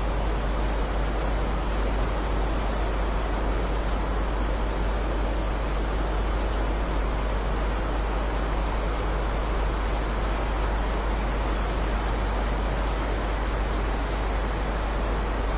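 Steady heavy rain: an even, unbroken hiss with no separate drops standing out, over a deep steady rumble.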